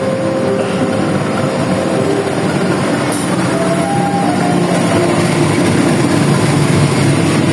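Passenger train running through a station: a loud, steady rolling rumble with a few faint held tones over it.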